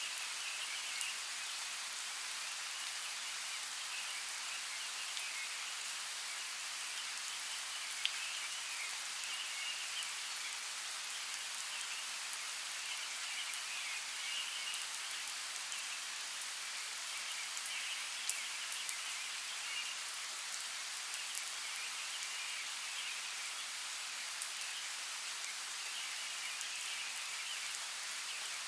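Steady rain falling, an even hiss with scattered sharp clicks of single drops, and a faint chirring chorus that comes and goes behind it.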